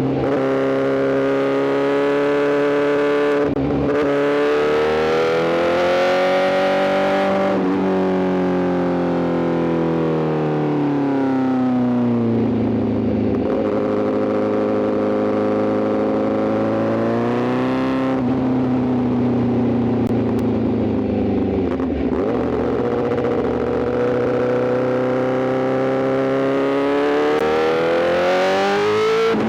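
Honda CBR1000RR-R SP's inline-four through an Arrow GP full exhaust, ridden hard: the engine note climbs and falls with the throttle, broken by several quick gear changes. The pitch rises for the first several seconds, drops back through the middle and climbs again near the end.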